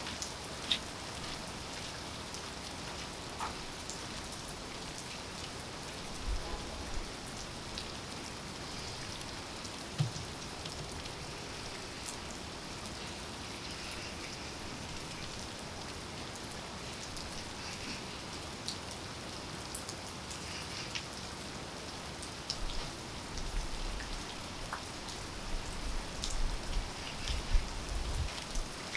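Steady rain falling and pattering on surfaces, with scattered louder drips. A few low thumps come through, mostly near the end.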